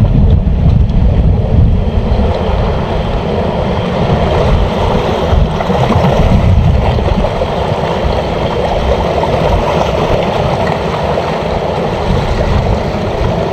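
Steady rushing of wind on the microphone mixed with sea water washing at the shore, loudest in the low rumble, with no distinct knocks or tones.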